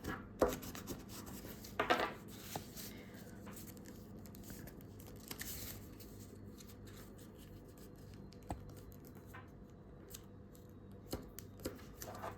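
A4 paper being folded and creased by hand: a few short, sharp crackles and rustles, with soft handling ticks between them.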